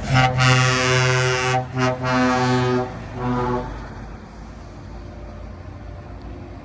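Truck air horn sounding: one long blast, then three shorter ones, stopping about three and a half seconds in. Truck engines keep rumbling underneath and afterwards.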